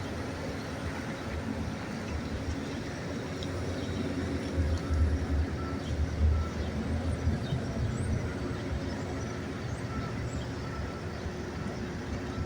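Steady low rumble of a bus's engine and running noise, swelling about halfway through. Faint short beeps repeat in the second half.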